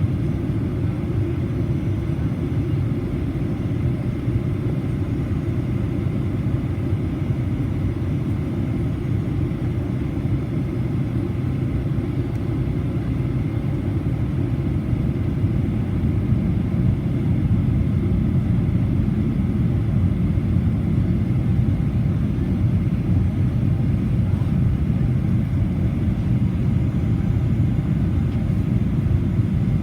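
Cabin noise inside a Boeing 737-800 in flight: a steady low rumble of engines and airflow, growing slightly louder about halfway through.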